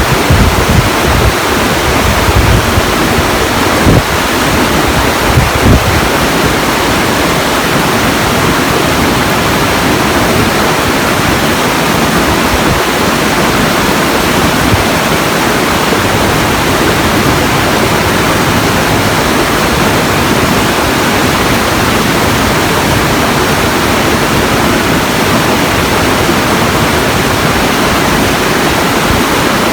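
Steady, loud rush of water, like a waterfall, with a few low gusts of wind on the microphone in the first few seconds.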